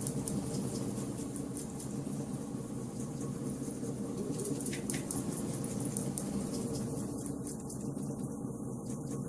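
Wood fire burning in a fireplace: a steady low rush of flames with small sharp crackles and pops scattered through it.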